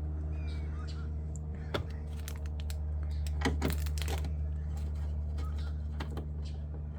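Clicks and light plastic rattles from handling a headlight assembly and its fasteners, with a louder cluster of clicks about three and a half seconds in, over a steady low hum.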